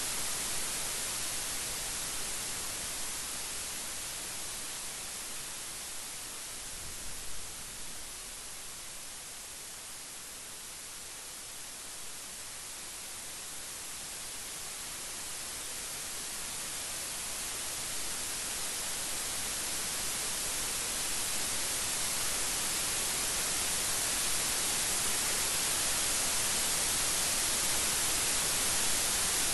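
Steady rain falling as a dense, even hiss, easing slightly partway through and then growing louder toward the end.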